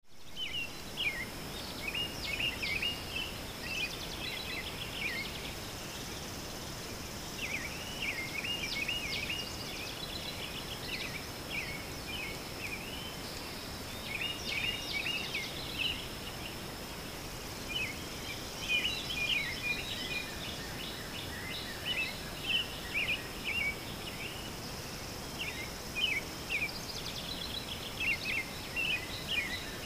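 Birds singing outdoors: clusters of short, chirpy, quickly sliding notes every few seconds, over a steady high thin tone and a low background hiss.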